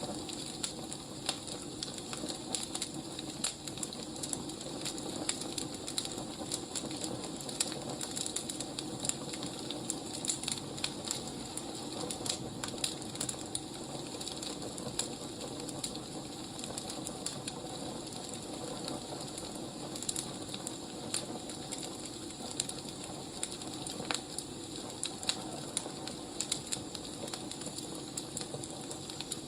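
Wood fire crackling: irregular small pops and snaps over a steady hiss.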